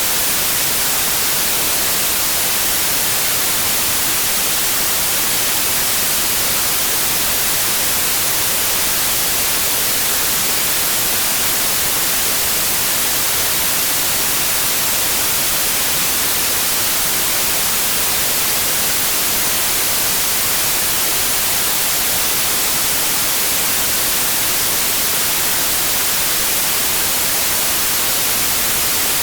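Steady white noise: a constant, even hiss with no change in level.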